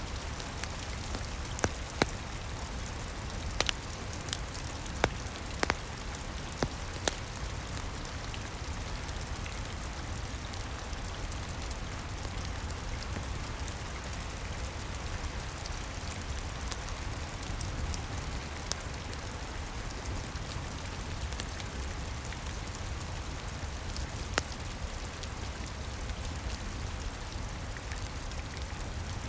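Steady rain patter with a low rumble underneath, and sharp pops from a crackling wood fire: several in the first seven seconds, then one more near the end.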